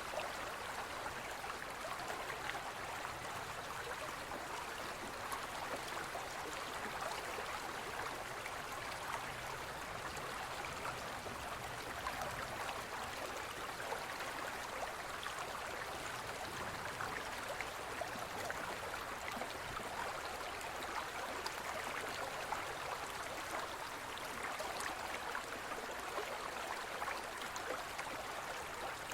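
Gentle forest stream flowing steadily: a continuous rush of water flecked with small gurgles.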